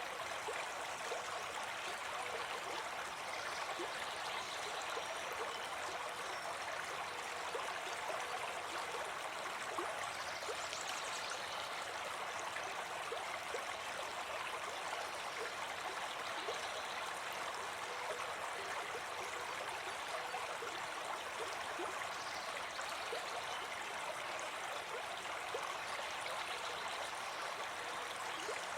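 A brook babbling steadily, its running water making an even, unbroken rush.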